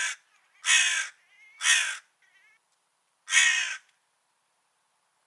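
A crow cawing: a brief call at the very start, then three loud caws, the third after a longer pause, with two faint short calls between the first loud ones.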